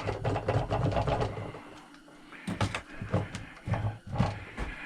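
A small power tool's motor buzzes steadily while a bolt is backed out of the chop saw, then stops about 2 seconds in. It is followed by scattered sharp clicks and knocks of metal parts being handled.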